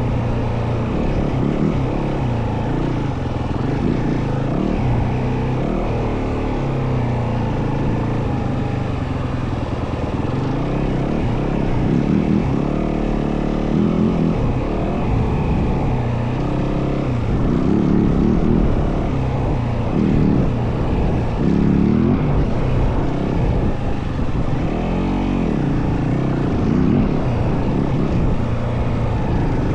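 Yamaha WR450F dirt bike's single-cylinder four-stroke engine under way, its pitch rising and falling again and again as the rider works the throttle and gears, with a constant low rumble under it.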